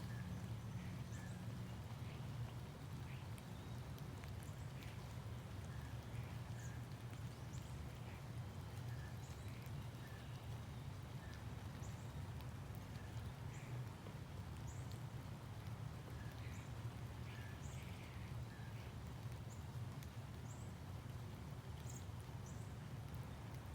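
Birds chirping in short, high calls, one every second or so, over a steady low rumble.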